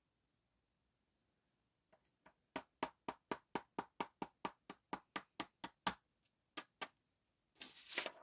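A quick, even run of sharp clicks, about four a second for some three seconds, then two more clicks and a short rustle near the end.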